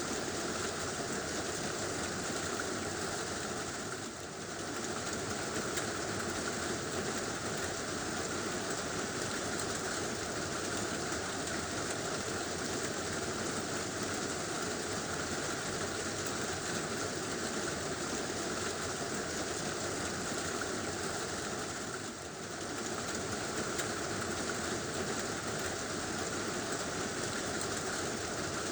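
Heavy rain drumming steadily on a tin roof, a dense, even wash that eases for a moment twice, about four seconds in and again a little past twenty seconds.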